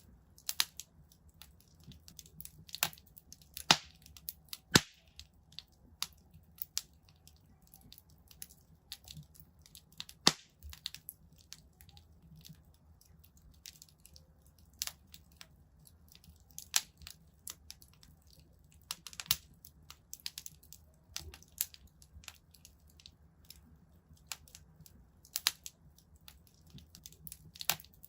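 Wood fire crackling in a fireplace: irregular sharp pops and snaps, some in quick clusters, with a few louder cracks, over a faint low steady rumble.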